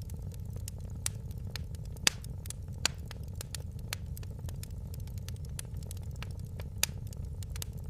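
Wood fire burning in a fireplace: a steady low rumble of flames with sharp, irregular crackles and pops, the loudest about two seconds in.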